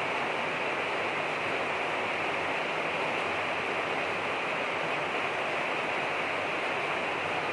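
Steady rain falling: an even hiss that holds the same strength throughout.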